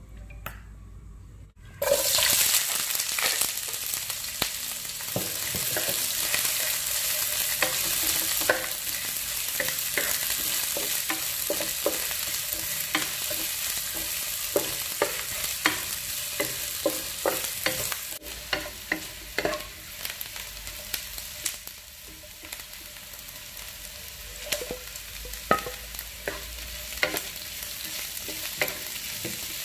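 Sliced onions and red chilies frying in hot oil in a wok, starting with a sudden loud sizzle about two seconds in as the food goes in. A wooden spatula stirs them, its strokes scraping and tapping on the pan, and the sizzle eases a little in the second half.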